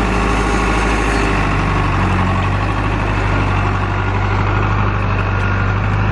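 Tractor engine running at a steady speed close by, with no change in pitch.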